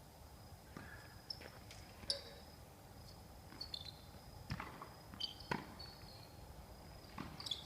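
A tennis ball bouncing on the court a few times, with scattered footsteps; the knocks are sparse and fairly quiet.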